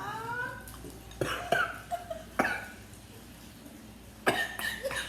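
A man's strained, rising groan, then a few sharp coughs spread over the next few seconds: a reaction to a mouthful of very sour citric acid.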